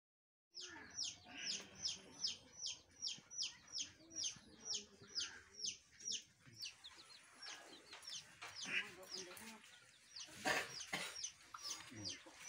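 A bird calling in a fast run of short, high, falling chirps, about two to three a second, that turns more irregular about halfway through. A brief louder noise cuts across it about ten and a half seconds in.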